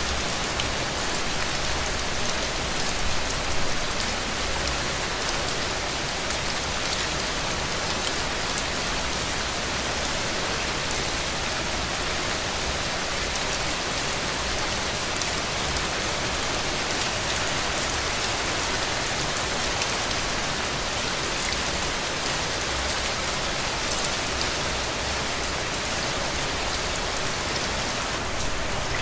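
Heavy rain falling steadily on a roof, a dense even hiss with many individual drop ticks and small swells in intensity.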